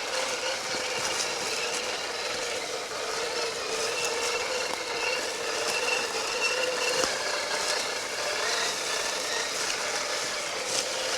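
Small electric RC crawler trucks driving, their motors and gears whining steadily, with light clicking and rattling as they go.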